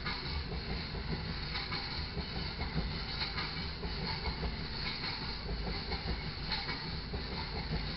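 Loaded taconite ore hopper cars rolling steadily past, a continuous rumble of wheels on rail with faint clicks about every second and a half as wheels cross rail joints.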